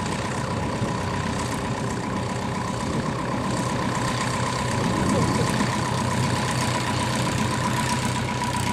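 An engine idling steadily, a low even hum with a constant thin whine above it.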